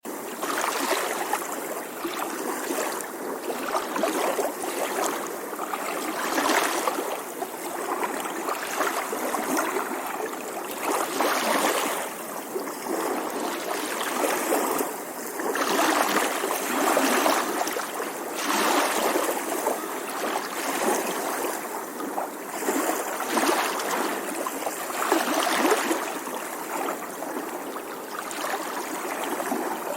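Moving water rushing and splashing without a break, swelling and easing every second or two.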